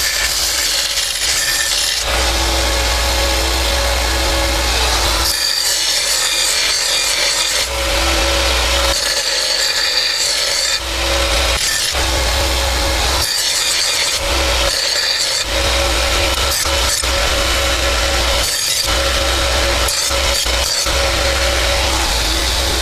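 Belt sander running steadily, with a rasping rub each time the workpiece is pressed to the belt, on and off every second or two.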